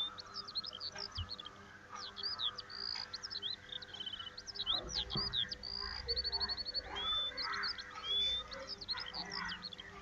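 Small birds chirping and whistling: a steady stream of short rising and falling whistles, chirps and quick trills, one after another without a break.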